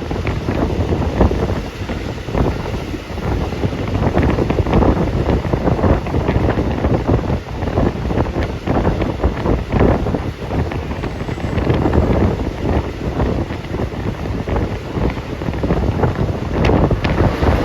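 Wind buffeting a phone microphone: a loud, uneven rushing rumble that swells and dips throughout.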